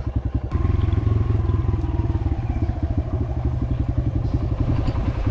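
Dirt bike engine idling with a lumpy, pulsing beat, then opened up about half a second in and held at a steady, louder running speed.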